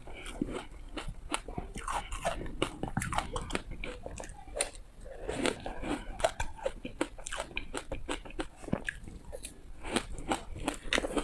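A person biting and crunching frozen ice: a rapid, irregular string of sharp cracks and crunches, with chewing between bites.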